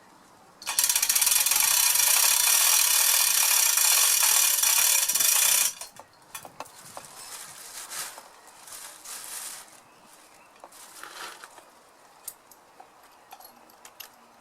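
Hilka chain block being hauled on its hand chain: a loud, dense ratcheting clatter of pawl and chain that starts sharply, runs about five seconds and stops abruptly. Quieter scattered clicks and knocks follow.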